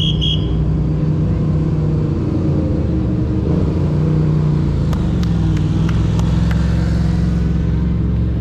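An engine running steadily with a low, even hum that shifts slightly in pitch, and a few faint clicks about halfway through.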